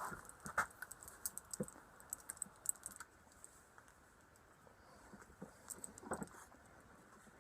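Faint, irregular light clicks and ticks of a bench vise being cranked shut on a forming die, pressing a thin sheet-metal blank into a rudder cable outlet bump. The clicks bunch in the first few seconds and again about six seconds in.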